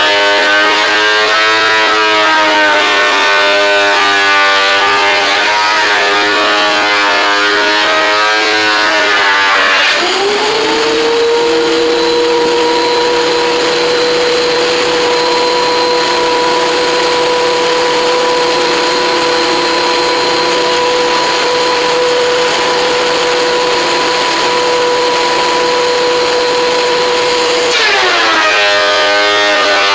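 WEN 13-inch benchtop thickness planer's motor running loud: for about ten seconds its whine is lower and wavering while a board is cut. It then rises to a steady, higher whine while running empty, and bogs back down near the end as the next board feeds in.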